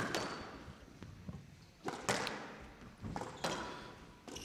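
Squash ball being struck by rackets and smacking off the court walls during a rally: about six sharp, echoing cracks at uneven intervals, some in quick racket-then-wall pairs.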